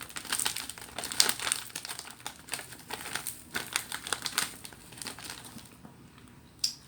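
Plastic food packaging crinkling as it is handled and folded, a dense crackle that thins out after about five seconds, with one sharp click near the end.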